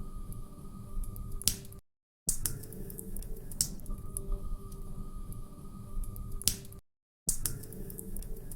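Wood fire crackling, with a few sharp pops over a low steady rumble. The sound cuts out to silence twice for about half a second.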